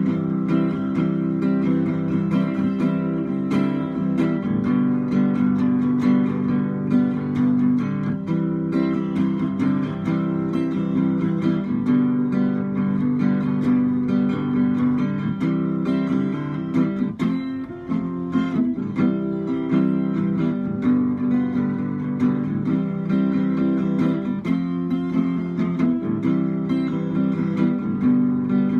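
Acoustic guitar strumming and picking chords, an instrumental break in a song.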